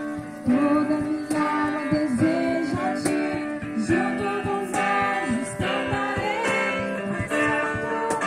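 A Christian praise song (louvor): voices singing over strummed acoustic guitar with a steady rhythm.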